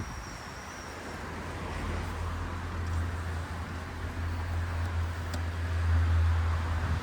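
Outdoor ambience with a low rumble that swells over several seconds.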